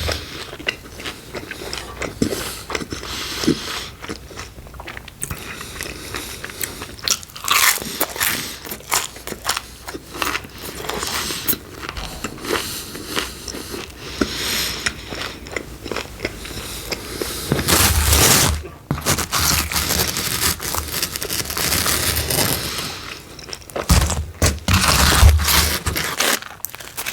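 Close-miked eating of pepperoni pizza: crunchy bites into the crust and wet chewing, irregular throughout, with louder bursts of crunching about two thirds of the way in and again near the end.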